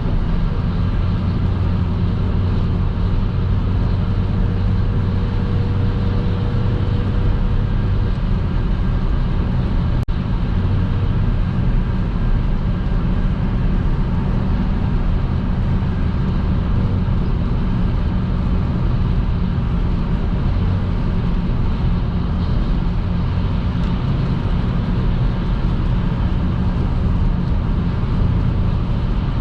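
Car driving at motorway speed on a rain-wet road: a steady low rumble of engine and tyre noise, with a momentary dropout about ten seconds in.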